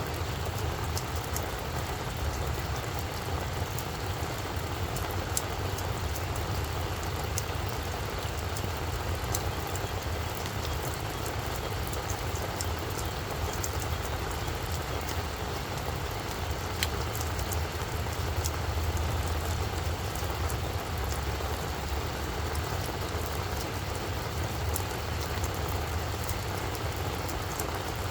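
Steady rain falling on a flower bed, a continuous hiss with many individual drops ticking sharply, over a low steady rumble.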